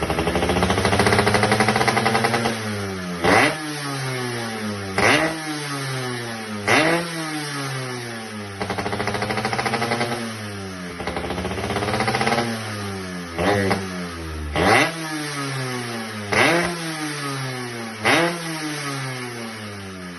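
Motorcycle engine running through a sound-damping aftermarket exhaust silencer, blipped repeatedly, about once every second or two: each rev rises sharply in pitch and falls back to idle.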